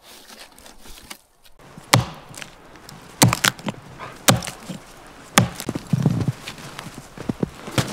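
A series of sharp, irregularly spaced knocks or crunches, about six of them, with a short low rumble in the middle.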